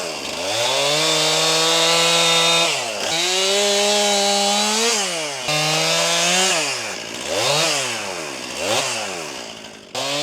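Stihl MS261 C two-stroke chainsaw revved up and held at high speed, dropping back each time the throttle is released, in a run of edited clips that jump abruptly. Past the middle it is blipped up and down three times in quick succession.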